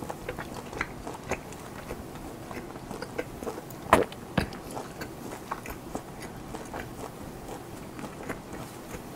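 Close-miked chewing of German-style ham: a steady run of small wet mouth clicks and smacks, with one sharper, louder click about four seconds in.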